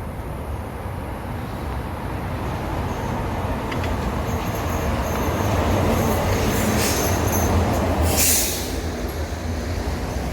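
Heavy road vehicle engine rumbling, growing louder over several seconds as it approaches, with a short hiss about eight seconds in.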